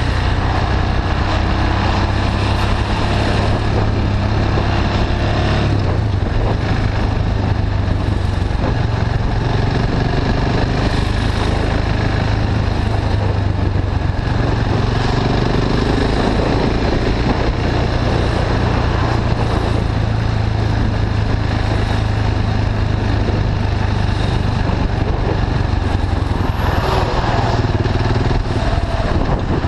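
KTM 690 Duke's single-cylinder engine running on the move through an Akrapovic slip-on exhaust with the catalyst bypassed. The engine note rises and eases a little with the throttle, over a steady low wind rumble on the camera microphone.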